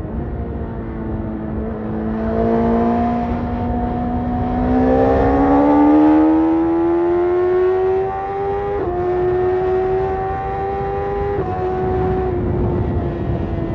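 BMW S1000RR's inline-four engine through a tuned Akrapovic carbon exhaust, pulling under acceleration with a rising pitch. The pitch drops sharply twice, about nine and eleven and a half seconds in, as gears change.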